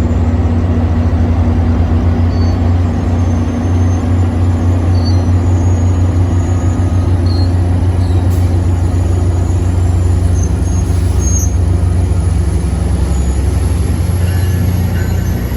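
Metrolink MP36PH-3C diesel-electric locomotive pulling its train away from the station, its engine working under load with a loud, steady deep drone. A few short, faint high squeaks sound over it.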